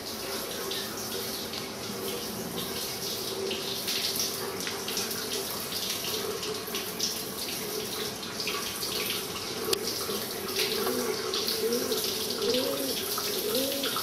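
Water running from a tap, with splashing. In the last few seconds a wavering pitched sound rises and falls over it.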